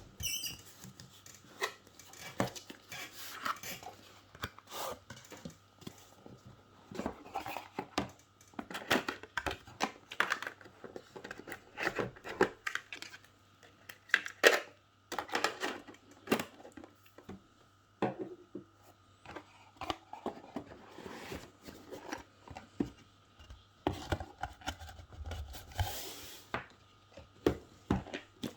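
Hands handling small plastic devices and their packaging: irregular clicks, knocks and rustling or tearing, with a faint steady hum underneath.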